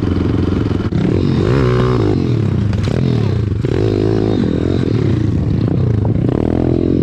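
Single-cylinder pit bike engine revving up and down while being ridden, its pitch rising and falling several times.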